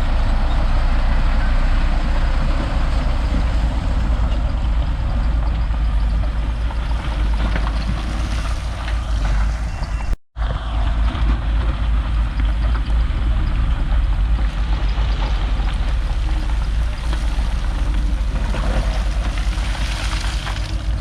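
Heavy diesel machinery, a bulldozer's engine, running steadily with a deep rumble. The sound drops out for a split second about halfway through.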